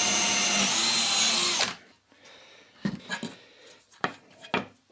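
Power drill running steadily as it re-drills an 8 mm hole through film-faced plywood, stopping suddenly about a second and a half in. A few sharp, light knocks follow.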